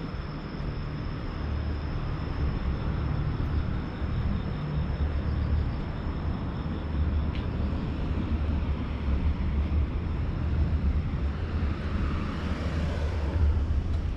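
Outdoor ambience: a steady low rumble, with a swell of noise like a passing vehicle near the end and a faint steady high tone.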